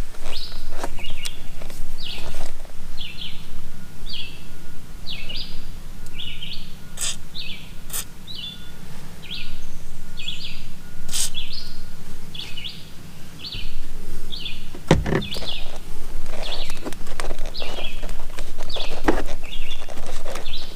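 A bird chirping over and over, short chirps about twice a second, with a few sharp clicks and knocks scattered through.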